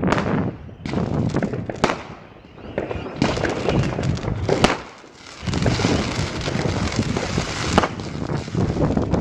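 Fireworks going off: a dense, loud crackling and popping broken by a few sharp bangs, easing off briefly twice before picking up again.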